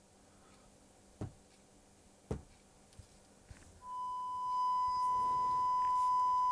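A few sharp clicks, then a steady 1 kHz sine test tone from a Sonnect Sound Bullet signal tester's generator starts about four seconds in and gets louder a second later.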